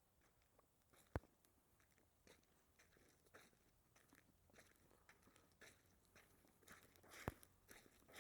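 Faint footsteps crunching and scuffing on an icy dirt road, about two steps a second. Two sharp clicks stand out, one about a second in and one near the end.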